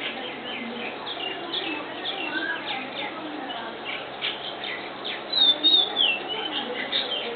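Small birds chirping: many quick, high chirps and short falling notes, with a louder run of falling calls about five seconds in.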